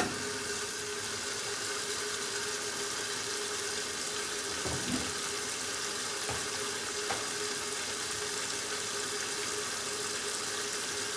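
1969 Westinghouse LAJ535A3 washing machine starting to fill: water rushes in through the inlet valve as a steady hiss, starting suddenly, with a steady hum under it.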